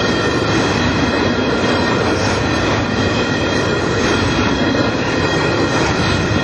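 Empty covered hopper cars of a long freight train rolling steadily past at close range: a continuous rumble and hiss of steel wheels on the rails, with thin, steady high-pitched wheel squeal.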